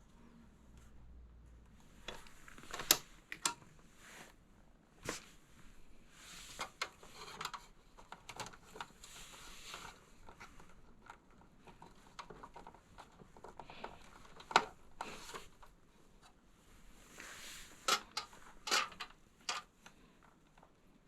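Hands working with small parts and tools: scattered sharp clicks and knocks between stretches of soft rustling.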